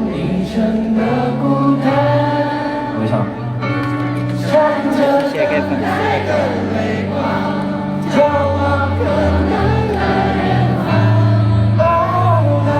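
Live pop concert music: singing over sustained bass notes and chords, with the voices sounding like a choir or many people singing together.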